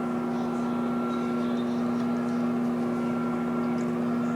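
Microwave oven running on full power, a steady unbroken electrical hum.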